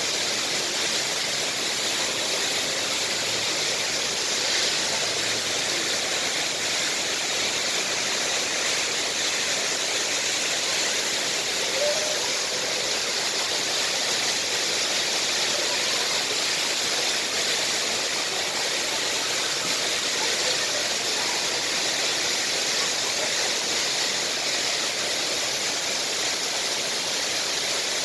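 The Rain Vortex, a very tall indoor waterfall, pouring down steadily, making a constant, even rush of falling water.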